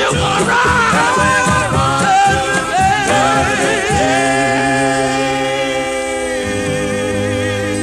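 Male gospel quartet singing the end of the song. The lead voice's wavering runs give way, about four seconds in, to a long closing chord held by the whole group.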